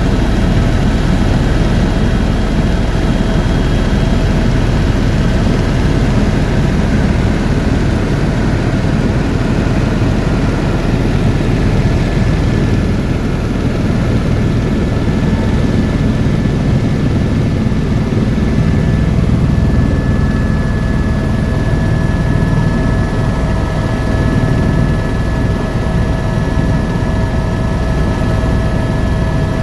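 Helicopter in flight: a loud, steady rumble of the rotor and turbine engine, with a few steady whining tones on top.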